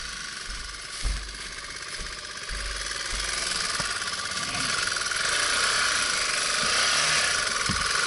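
A vehicle engine running steadily, with a fast even pulse, growing louder over several seconds, with irregular low thumps underneath.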